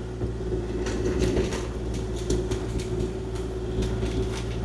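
Kubota KX040-4 mini excavator's diesel engine running steadily, with scattered sharp clicks and knocks from about a second in as the machine works.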